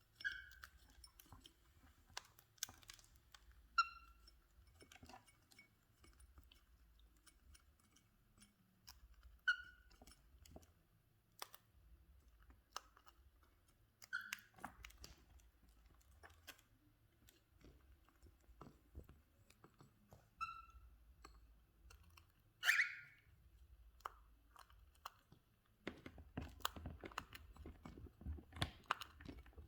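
Cockatiels cracking and crunching seeds and grains in their beaks, a steady patter of small clicks that gets denser near the end. Short chirps come every few seconds, with one louder call about two-thirds of the way through.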